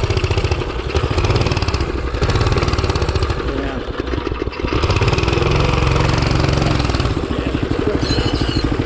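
Hisun 196cc single-cylinder engine on a mini bike running unevenly, its speed dipping and picking back up several times. It won't hold a consistent speed, which the owner blames on its VM22 carburetor.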